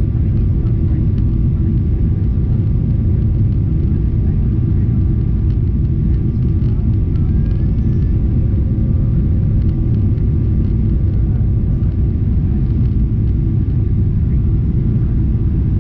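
Steady, unchanging low rumble of a Boeing 777-300ER in flight, heard from inside the cabin: engine and airflow noise with a few faint steady tones above it.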